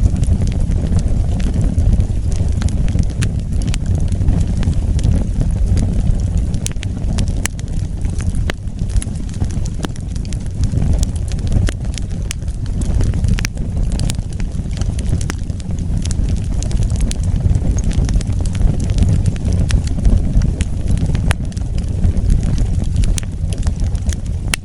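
Wood fire burning, with a steady low rumble of flames under frequent sharp crackles and pops from the burning wood.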